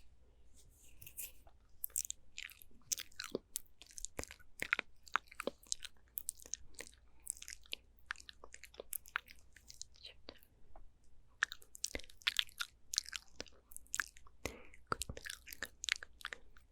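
Close-miked ASMR mouth sounds: wet clicks and smacks of tongue and lips, many in quick, irregular succession.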